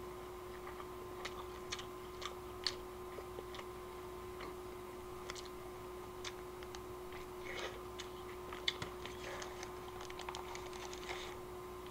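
Faint, irregular clicks and crackles of someone eating a burger: chewing, with mouth clicks and the paper wrapper crinkling, over a steady low hum.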